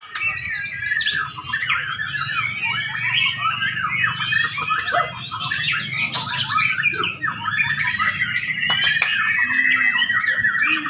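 White-rumped shama (murai batu) singing a fast, varied, unbroken song of rapid whistled phrases, turning in the second half into a long, level trill. A low steady hum runs underneath.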